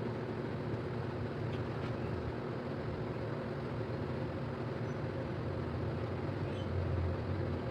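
A steady low mechanical hum and rumble that does not change, with several low tones held over an even noise.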